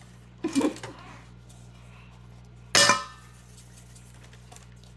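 Kitchen crockery and utensils clinking: one sharp, loud ringing clink about three seconds in, over a low steady room hum.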